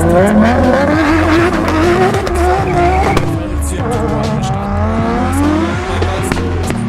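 Toyota Supra MK4's straight-six engine revving hard under full acceleration. Its pitch climbs, drops sharply about three seconds in at a gear change, then climbs again.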